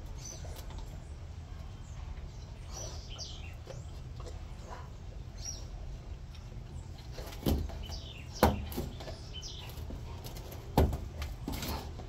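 Small birds chirping here and there over a steady low outdoor rumble. Three sharp knocks come in the second half, the middle one the loudest.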